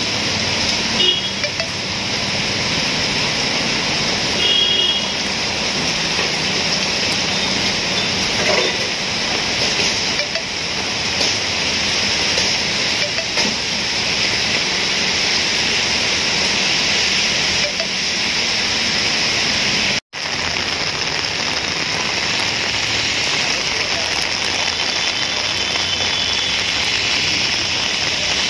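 Heavy rain pouring steadily onto a street and pavement, a constant dense hiss of downpour, broken by a momentary dropout about two-thirds of the way through.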